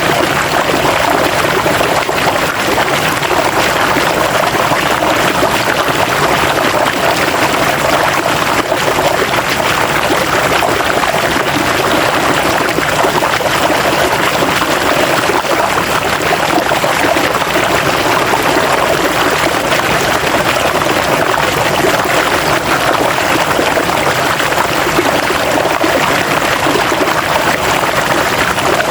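River water flowing and splashing over rocks, a steady rushing babble.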